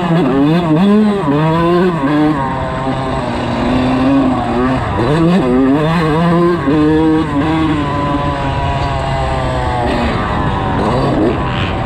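Dirt bike engine revving hard and easing off again and again, its pitch climbing through each gear and dropping at the shifts and off the throttle, as it is ridden around a motocross track.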